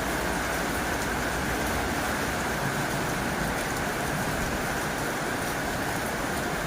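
Heavy rain falling steadily on a tin roof, a dense, even hiss without pauses.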